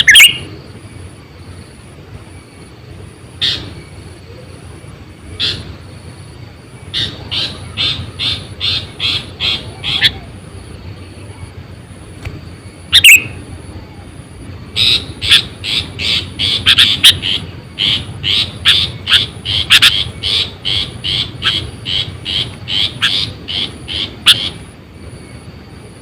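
Sooty-headed bulbul (kutilang) calling: a few single sharp calls, then runs of quick repeated notes, about three a second, the longest lasting nearly ten seconds near the end.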